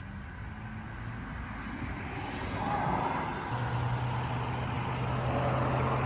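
Road traffic: the noise of vehicles on a nearby road grows steadily louder. About halfway through, a steady low hum joins it.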